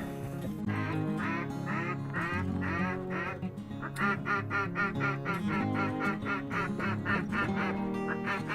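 Duck quacking: a string of quacks about half a second apart, then a faster run of quacks from about four seconds in, over background music with low held notes.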